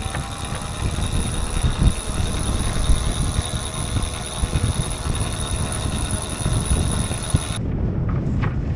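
Powered sailboat winch hoisting the mainsail halyard: a steady motor whine with a high tone, cutting off abruptly near the end, over wind noise on the microphone.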